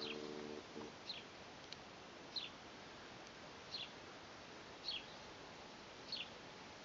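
A bird repeating a short, high, falling chirp about every second and a quarter over faint outdoor background hiss. A brief low tone sounds at the very start.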